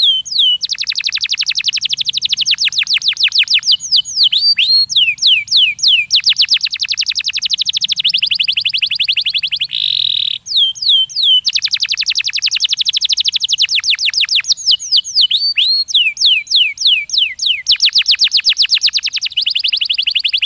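Domestic canary singing: long, fast trills of rapidly repeated notes alternating with runs of falling whistled notes. There is a short break about ten seconds in, after which the same sequence of phrases comes again.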